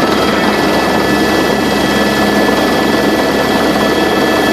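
Helicopter running steadily: a loud, even engine and rotor noise with a steady high whine over it.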